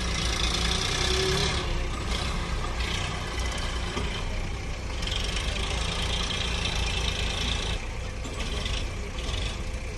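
Heavy diesel machinery engine running steadily, with a hiss that comes and goes twice.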